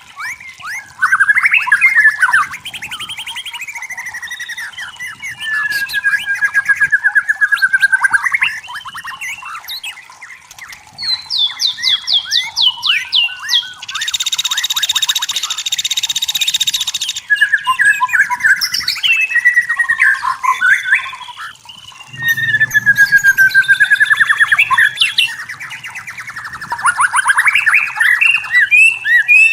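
White-rumped shama singing a loud, varied song of clear whistles, rapid trills and gliding phrases, with a harsh buzzy note lasting about three seconds near the middle.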